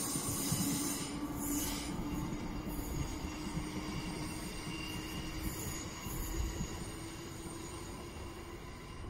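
Merseyrail electric passenger train running on the rails: a low rumble with several steady high-pitched squealing tones above it, growing gradually quieter.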